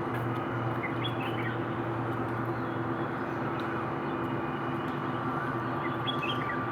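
A steady mechanical hum with a few fixed tones, with short high bird chirps about a second in and again near the end.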